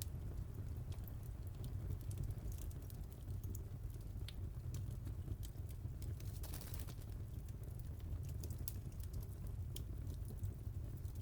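Wood fire crackling: irregular small pops and snaps over a steady low rumble of the burning logs, with a brief hiss about six and a half seconds in.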